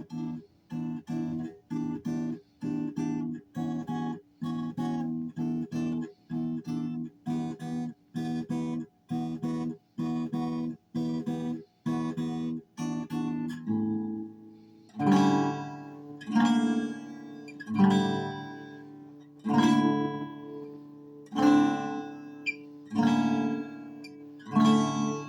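Acoustic guitar strummed in an improvised practice: short clipped chords about twice a second, then from about halfway fuller chords left to ring, struck roughly every second and a half.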